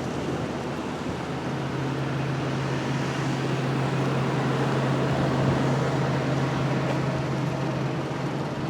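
Steady outdoor rushing noise with a low, steady hum underneath, like an engine or machine running nearby.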